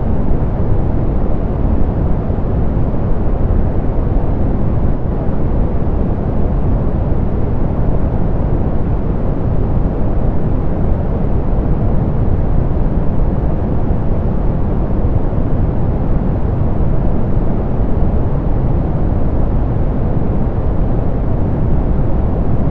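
Steady soft pink noise: an even, featureless hiss weighted toward the low end, darker and more muffled than white noise, with no change in level.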